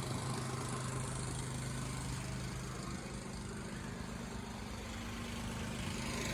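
An engine running steadily at idle, a constant low hum with a slight rise in level near the end.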